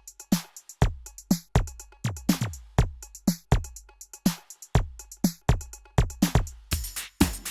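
Korg drumlogue drum machine playing a preset pattern of syncopated electronic kicks that drop quickly in pitch, with hi-hats and snare or clap hits. Near the end a denser, brighter layer of hi-hat or percussion hits comes in.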